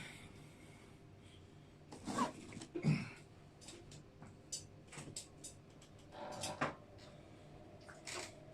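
Quiet eating of digestive biscuits, with scattered small crunches and mouth clicks. Two short hummed murmurs come about two and three seconds in, and a brief rustle follows a little past six seconds.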